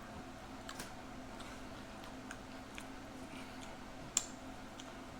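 Faint, scattered small clicks over quiet room tone, with one sharper click about four seconds in.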